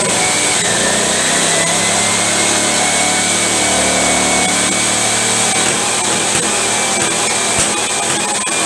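1958 BSA Bantam D5's 174 cc two-stroke single-cylinder engine running steadily. The owner says it is not running too well and suspects an ignition problem.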